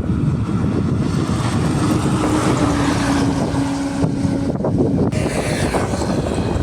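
Road traffic noise of heavy trucks passing close by, with wind on the microphone. A steady hum from a passing vehicle runs through the middle and drops slightly in pitch as it goes by.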